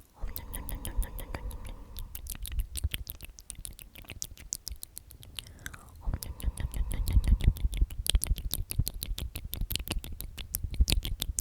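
Close-miked ASMR mouth sounds: 'omnomnom' murmured and whispered over and over, with rapid wet mouth clicks and smacks. A low hummed 'om' starts the run twice, at the beginning and about six seconds in.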